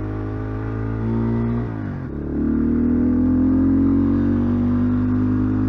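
Rockot Highlander 250 cc enduro motorcycle engine running under way. About two seconds in the revs dip briefly, then climb steadily and get louder.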